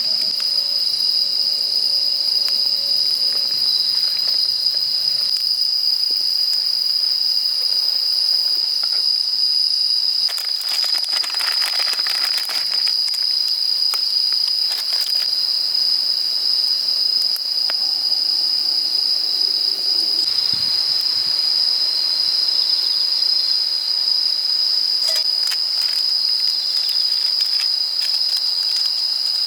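Crickets and other night insects trilling: one continuous, high, shrill chorus that never breaks. About eleven seconds in, a brief rustling noise rises over it.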